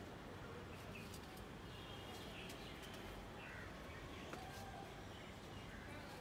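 Faint bird chirps, a few short calls scattered through, over a steady low outdoor background noise.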